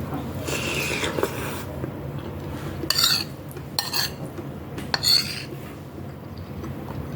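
Spoon and utensils clinking and scraping against a bowl while eating misua noodle soup with sardines: a stirring, scraping stretch early on, then three short sharp clinks about a second apart.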